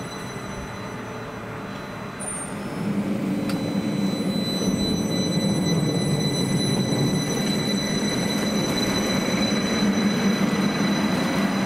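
Train approaching and running through the station without stopping. The rumble of wheels on rail builds about two and a half seconds in and stays loud, over a steady high whine.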